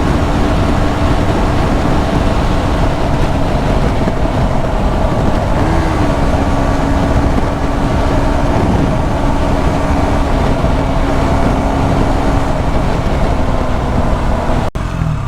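KTM 125 Duke's single-cylinder engine running at a steady cruise under heavy wind and road noise on the microphone. The sound breaks off suddenly near the end.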